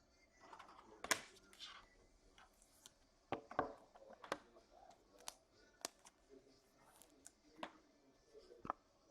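Trading cards being handled and flipped through: faint scattered clicks, snaps and light rustles of card stock and wrapper, the sharpest about a second in and again around three and a half seconds in.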